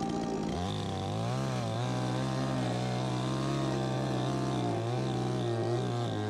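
Chainsaw engine revving up about half a second in and then held at steady high revs, its pitch wavering slightly.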